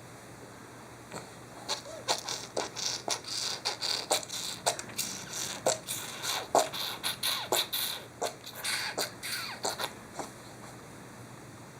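Baby making a rapid run of short squeaky, oinking noises, several a second, starting about a second in and stopping near the end; the sound she makes when she is really happy.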